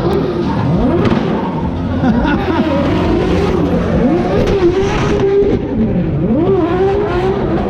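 Fully built single-turbo Toyota 2JZ inline-six in a drift car, revving up and down over and over as the driver works the throttle.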